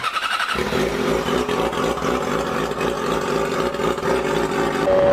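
Yamaha R6 sport bike's inline-four engine running through its loud exhaust. It comes in about half a second in and then runs steadily.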